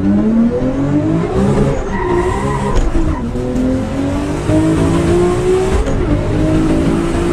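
A car engine accelerating hard at full throttle. Its pitch climbs through each gear and drops at upshifts about three and six seconds in.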